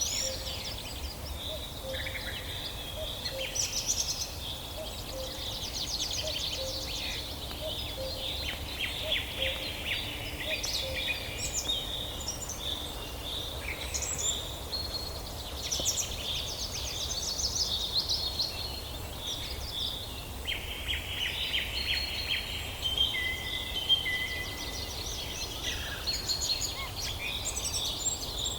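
Several wild birds singing and chirping at once, overlapping rapid trills and short high chirps, over a steady low rumble.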